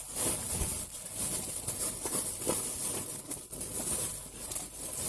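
Irregular crinkling and small clicks of tissue paper, sticks and bark being handled in a tin-can rocket stove, over a steady hiss of light drizzle.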